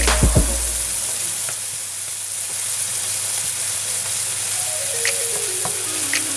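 Diced tomatoes and onions sizzling in hot oil in a frying pan as they are stirred with a wooden spatula, with a few sharp knocks of the spatula against the pan.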